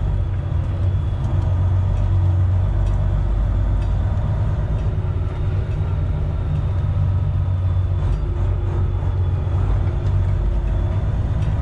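Freightliner Classic XL semi truck's Detroit Series 60 diesel engine running steadily at low revs, a deep continuous hum heard from inside the cab.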